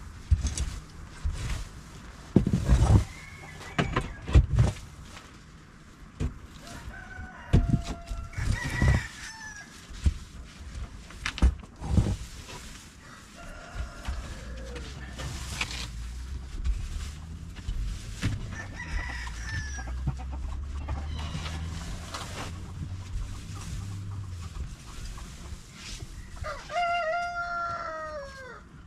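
Chickens clucking, with a rooster crowing near the end. Loud thumps come repeatedly through the first half.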